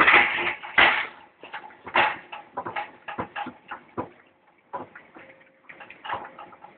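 Irregular metal clanks and knocks from an eight-bale hay accumulator, loudest and densest in the first two seconds, then sparser.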